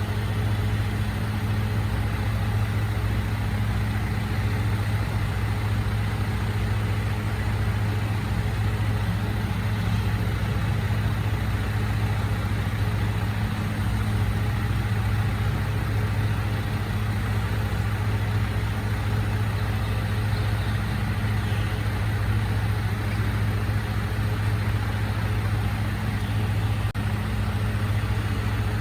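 Recycling truck's diesel engine idling steadily, a constant low hum with no revving or compactor cycles.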